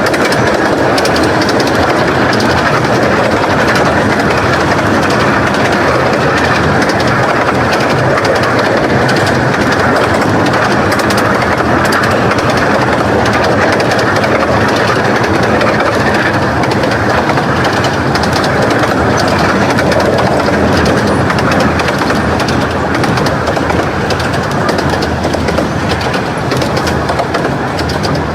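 Romney, Hythe and Dymchurch Railway 15-inch gauge train running on the track, a steady loud rail noise that eases slightly near the end.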